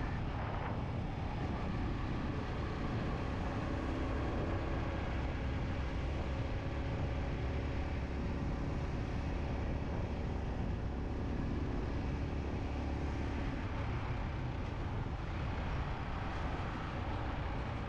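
Yamaha MT-15's single-cylinder engine running at a steady cruise, mixed with steady wind and road noise.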